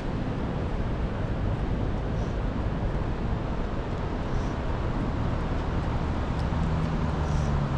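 Strong wind buffeting the microphone, a steady low rumbling noise. A low steady hum joins in for the last couple of seconds.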